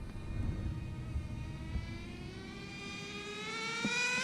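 Nitro RC car's small glow engine on a speed run, its high whine rising steadily in pitch and growing louder as the car accelerates, with no clear break for a two-speed shift. A brief knock at the start and another near the end.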